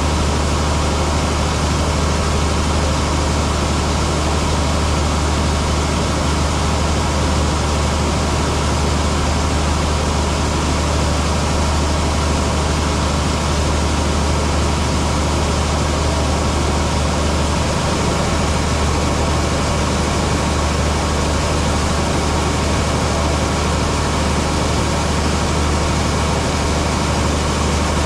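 Heavy diesel farm machinery running steadily under load: a constant deep engine drone with a dense mechanical rush over it, unchanging throughout.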